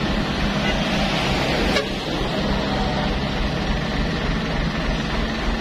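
Truck engine running steadily, with one short knock about two seconds in.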